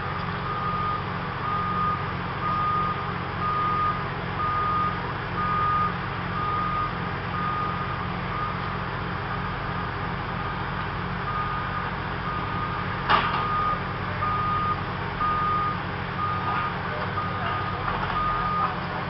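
Construction vehicle's backup alarm beeping steadily, about once a second, over a constant low engine rumble. A single sharp knock sounds about two-thirds of the way through.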